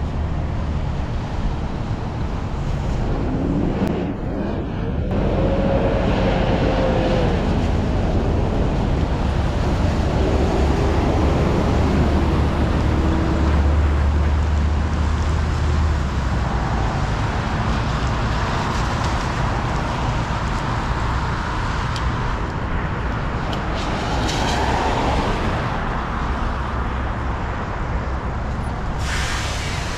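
Riding a bicycle on a wet road in traffic: a steady rush of tyres on wet pavement, with motor vehicles running past.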